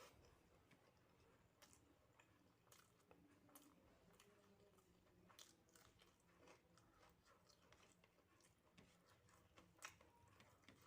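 Faint chewing, with scattered small wet clicks and smacks of a mouth eating soft food: rice with dal, mashed potato and omelet.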